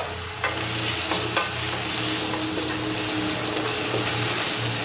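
Slices of dried tofu frying in shallow oil in a nonstick frying pan, with a steady sizzle. A wooden spatula taps and scrapes against the pan a few times as the slices are turned. The slices are nearly done, fried until firm and golden.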